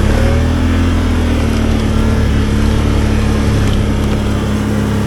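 ATV engine running steadily at moderate revs while riding a trail, its pitch rising slightly in the first second and then holding.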